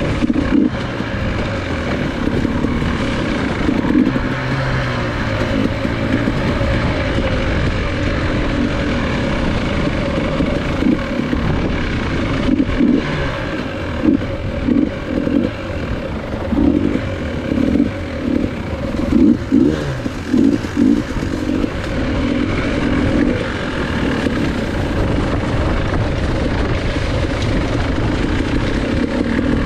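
Dirt bike engine running while being ridden, its note rising and falling with the throttle, with a run of short throttle bursts in the middle.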